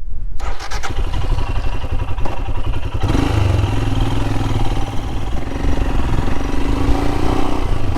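Royal Enfield Himalayan's 411 cc single-cylinder engine running on the move, with its air filter opened up; the engine note grows louder and fuller about three seconds in as the bike picks up speed.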